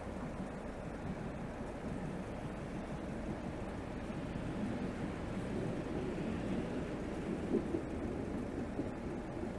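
Exhaust of a BMW 320xd's 2.0-litre four-cylinder turbodiesel (B47) on the move in town traffic, picked up right beside the tailpipe as a steady low rumble that grows a little louder about halfway through.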